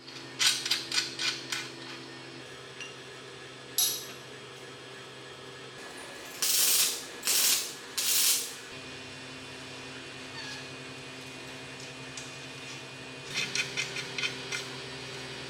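Workshop tool sounds over a steady low hum: a quick run of mechanical clicks, three short loud hissing bursts in the middle, then another run of clicks.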